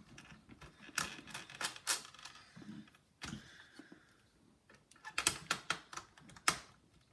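Bursts of sharp clicks and taps, in two clusters, from a precision screwdriver and small tools working at a stuck screw in a laptop's chassis.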